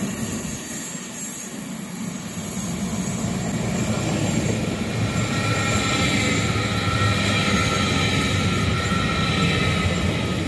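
Deutsche Bahn ICE high-speed train rolling past close by, with a dense wheel-on-rail rumble and a steady high-pitched whine over it, growing louder about four seconds in as the coaches pass.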